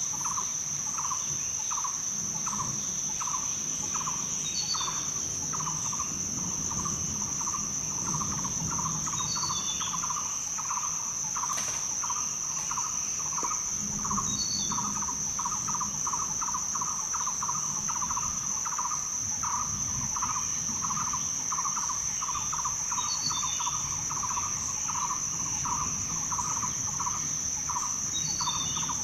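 Rainforest night-chorus ambience: a continuous high, steady insect drone under a lower chirping call that pulses a few times a second, with short high bird chirps every four or five seconds. A single brief click sounds about twelve seconds in.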